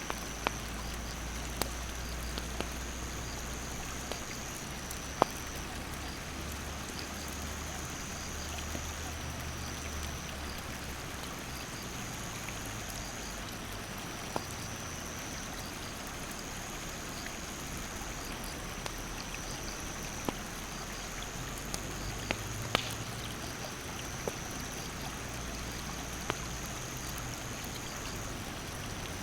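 Steady rush of a mountain stream and its rapids, with a wood campfire crackling in scattered sharp pops, one louder snap about five seconds in. Over it, insects keep up a high, even drone that breaks off and starts again every few seconds.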